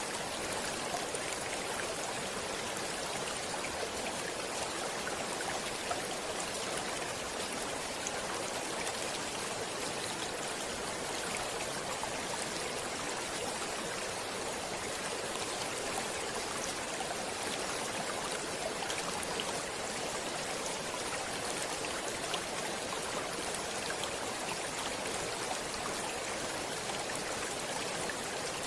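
Flowing stream water, a steady rush and babble with small splashes scattered through it.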